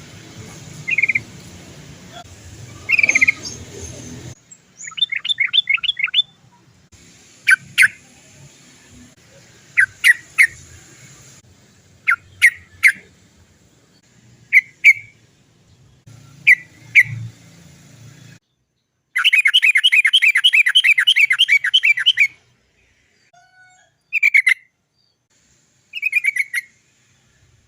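Yellow-vented bulbul (trucukan) calling: groups of short, sharp 'cok cok' notes and, past the middle, a long rolling run of rapid notes lasting about three seconds. Background hiss drops in and out between spliced recordings.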